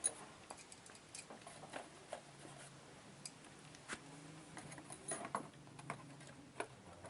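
Scattered light clicks and taps at irregular intervals, over a faint steady low hum.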